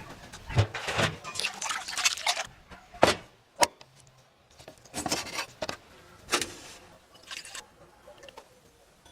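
Handling noises during food preparation: irregular metallic clinks and rustling, with two sharp clicks about three seconds in and sparser clatter after.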